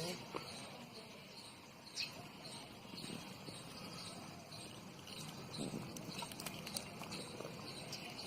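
Faint insect chirping in a steady, evenly repeating high pattern, with a few soft clicks.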